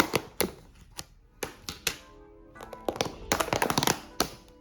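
A quick run of sharp taps and knocks, thickest at the start and again about three seconds in. Soft music with held notes comes in under them about two seconds in.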